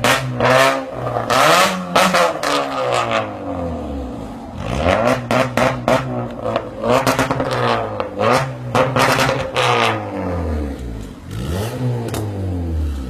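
Car engine revved up and down again and again through an aftermarket exhaust, pitch rising and falling with each blip, with sharp cracks between the revs.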